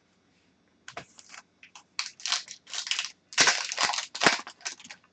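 Trading cards and their pack wrapper being handled: a run of crinkling and rustling strokes with small clicks, starting about a second in and loudest around three and a half seconds.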